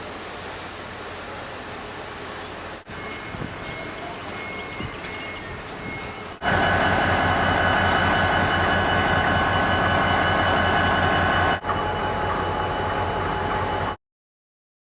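Railway locomotive engine running, heard in short spliced clips. The loudest clip, in the middle, has a steady whine over a throbbing engine note. The sound cuts off abruptly near the end.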